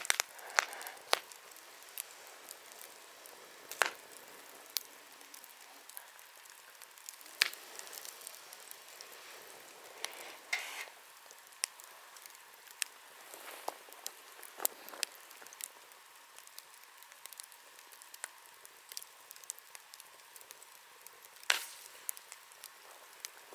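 Wood bonfire burning: a steady hiss with sharp crackles and pops scattered irregularly through it, a few of them louder, the loudest near the end.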